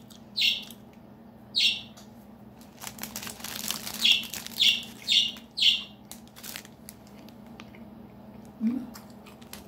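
A bird chirping in short, sharp high calls, six times, twice in the first two seconds and then four in quick succession about four to six seconds in. Clear plastic wrapping crinkles in the hands from about three seconds in to about seven seconds, over a steady low hum.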